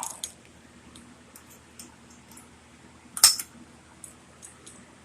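Light metallic clicks of a bicycle's handlebar brake levers being worked by hand, with one sharper, louder clink about three seconds in.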